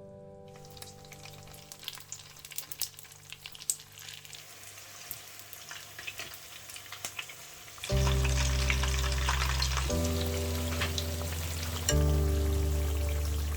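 Rice-paper spring rolls frying in hot oil: a steady crackle and sizzle of many small pops. About eight seconds in, background music with a deep bass line comes in louder over it.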